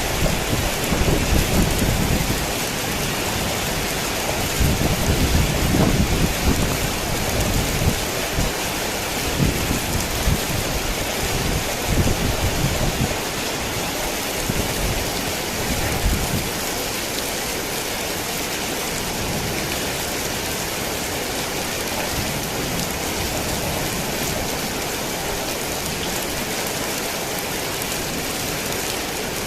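Heavy rain falling in a steady hiss, with low, uneven rumbles of thunder through the first half that die away about halfway through.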